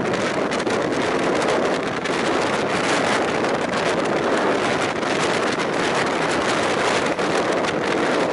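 Steady rush of air and running noise heard from the window of a moving passenger train, wind buffeting the microphone over the rumble of the train's wheels on the rails.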